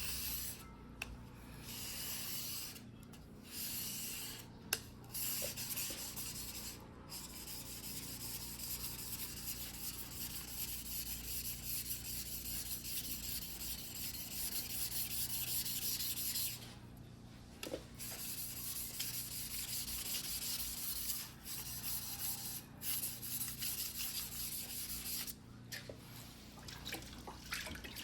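The steel blade of a single-bevel white-steel fuguhiki sashimi knife is being ground by hand on a whetstone: a steady, gritty scraping that stops briefly several times as the strokes pause.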